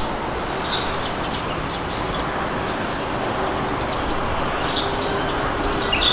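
Steady rushing wind with small birds giving short chirps now and then, the loudest chirp near the end.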